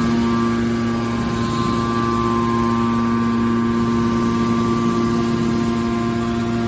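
Hydraulic scrap metal baler's power unit running: a steady mechanical hum with several held tones, no knocks or strokes.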